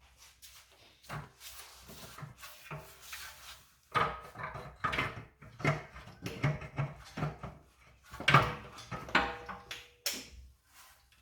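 Irregular metal clunks, knocks and scraping as the rusty exhaust manifold of a Toyota 2AZ engine is worked loose and lifted off, with a brief metallic ring near the end.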